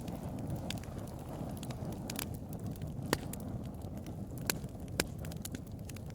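Bonfire burning: a steady low rush of flames with sharp crackles and pops scattered irregularly through it, the loudest pops about three, four and a half, and five seconds in.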